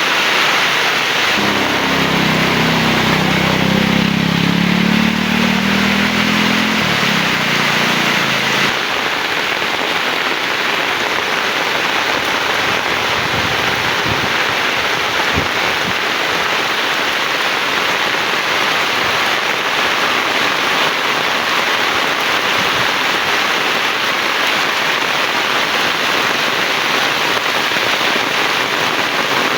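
Heavy rain falling steadily on surfaces. For the first several seconds a low pitched hum sits under the rain and cuts off abruptly about nine seconds in.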